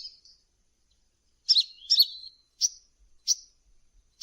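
Hummingbird calling in short, high chirps: a quick pair, then two single chirps with gaps between them.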